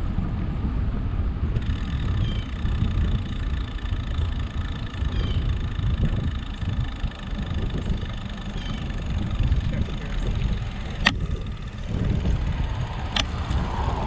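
Wind rumbling on the microphone while cycling, a steady low noise that swells and fades, with two sharp clicks near the end about two seconds apart.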